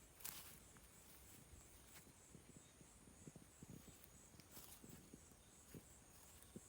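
Near silence: a faint, high, evenly pulsing insect chirring, with a few soft scattered knocks and rustles.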